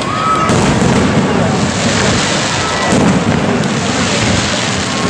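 Aerial fireworks shells bursting in a dense, continuous display, the bangs running together into a steady loud noise.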